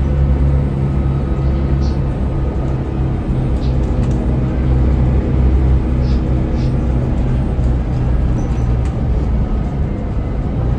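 Scania L94UB city bus engine running steadily under way, a deep steady drone heard from on board, with a few faint light rattles.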